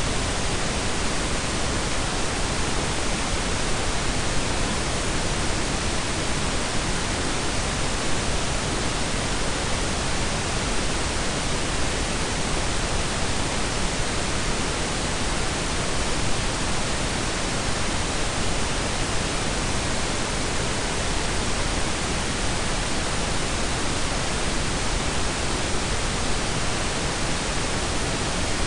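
Steady synthetic pink and brown noise blended: an even, unbroken hiss with a deep low rumble beneath it, unchanging throughout.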